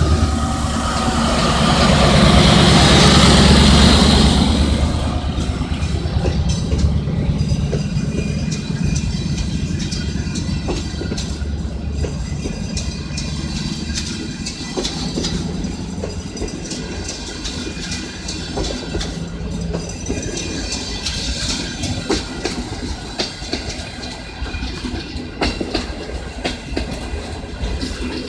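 CNR CKD8H diesel-electric locomotive hauling a passenger train past, its engine loudest about two to four seconds in. The passenger coaches then roll by with a steady clickety-clack of wheels over the rail joints, and a faint wheel squeal now and then.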